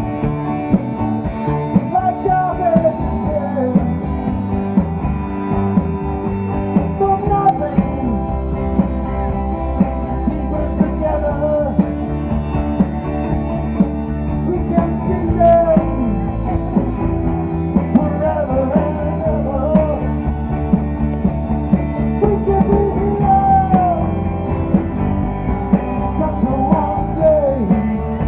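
Rock band playing a passage without words: a steady beat under sustained chords, with a lead melody that slides up and down in pitch.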